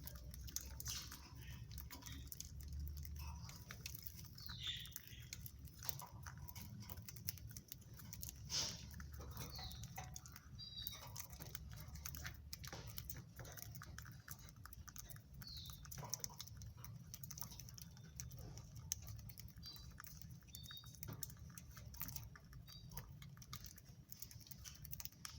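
Faint budgerigars: a few short, high chirps scattered through, with many light clicks and a low steady hum underneath.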